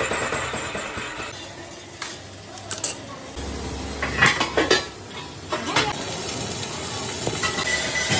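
Metal parts clinking and clanking in truck wheel manufacturing over steady machine noise, with a handful of sharp metallic knocks about the middle. The background noise changes abruptly several times.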